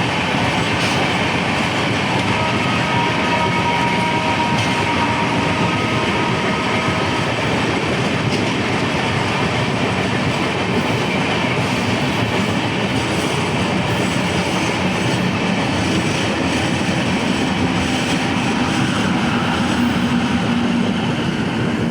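Train running at high speed: a steady, loud rush of wheel and rail noise, with a faint thin whine for a few seconds about two seconds in.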